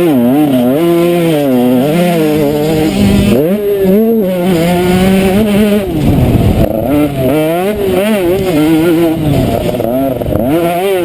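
Motocross bike engine heard close up from on board, revving up and down as the rider works the throttle, with the pitch dropping sharply a few times when the throttle is cut or a gear changes.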